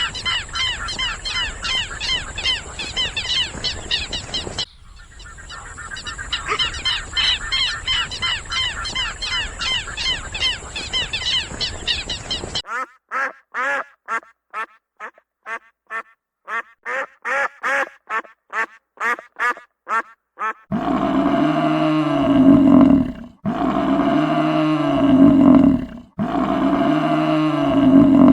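A run of wild animal calls in three parts: dense, overlapping, high chattering calls for about twelve seconds, then a series of short separate calls at about two a second, then loud, long, deep calls repeated every two seconds or so.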